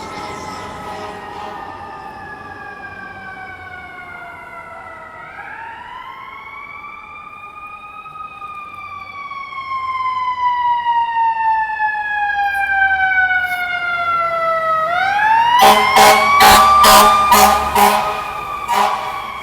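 Fire apparatus mechanical siren winding up quickly twice and coasting slowly down in pitch. Near the end comes a run of short, repeated air-horn blasts, the loudest part.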